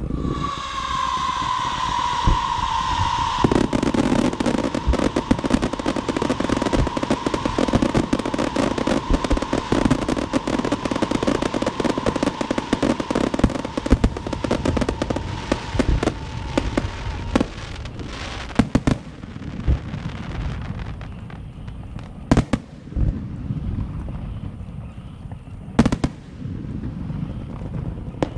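Firecrackers and fireworks going off. A shrill whistle falling slightly in pitch opens. From about three seconds in a string of firecrackers sets off a dense, rapid crackle, with the whistling tone running on beneath it until about halfway. In the second half the crackle thins to scattered loud bangs.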